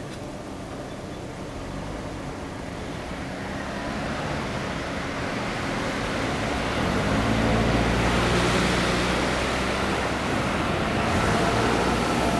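EF66 electric locomotive, with one container wagon in tow, running past and getting steadily louder, its motor hum and rolling wheel noise filling the sound at full volume from about seven seconds in.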